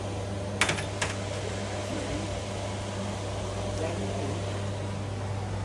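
Steady low mechanical hum, like a running motor, with two light clicks about half a second apart near the start.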